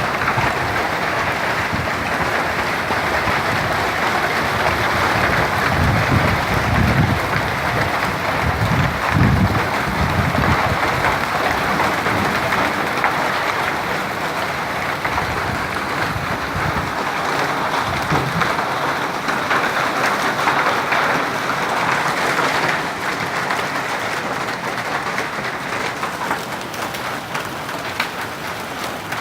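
Heavy hail and rain pelting down in a dense, steady patter of small impacts, with low rumbling between about six and ten seconds in.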